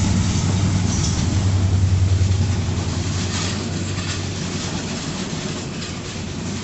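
A train running past close by: a steady low rumble with the clicking of wheels over the rail joints. It is loudest about two seconds in, then eases off.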